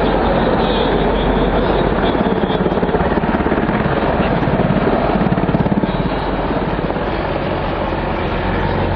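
Helicopter in flight, its rotor beating in a rapid, even rhythm over steady engine noise, louder around the middle.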